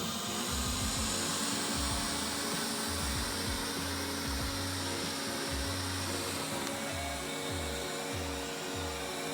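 Robot vacuum cleaner starting to clean: its suction motor spins up with a rising whine over the first second, then runs steadily with a constant hiss of air.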